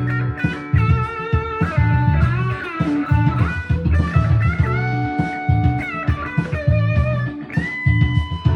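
Gibson Les Paul Standard 50s on its bridge pickup, through a Suhr Riot Mini distortion pedal on its tight gain setting and a Quilter Micro Pro amp, playing a blues-rock lead of held and bent notes over a backing track with bass.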